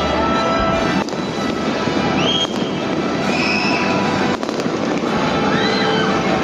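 Fireworks display bursting and crackling steadily, with sharp bangs about a second in, midway and past four seconds, and a few short pitch glides.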